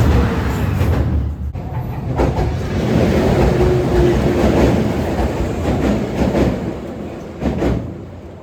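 A train running past on the rails, loud, then fading away over the last few seconds.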